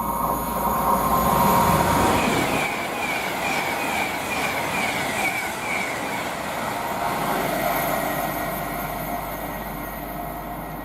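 Class 390 Pendolino electric train passing. Its noise rises to a peak about two seconds in, then fades slowly, with a run of short, high-pitched squeals during the pass.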